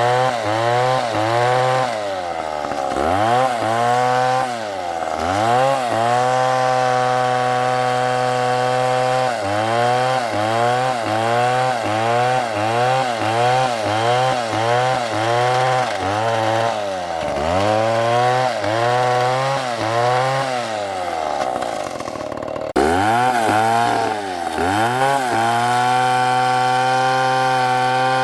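STIHL chainsaw cutting wood, its engine pitch repeatedly dipping and climbing back, with stretches held at high revs. The sound breaks off abruptly about three quarters of the way through and resumes at once at full revs.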